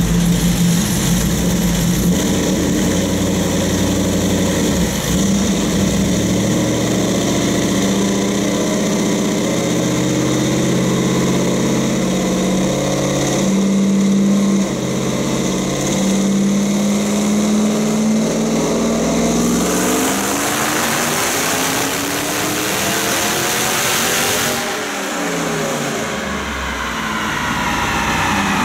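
Supercharged 5.4-litre V8 of a Ford SVT Lightning pickup, fitted with long-tube headers, running loud under load on a chassis dyno. The engine note climbs in steps, then falls away about twenty seconds in as the revs drop, and rises again near the end.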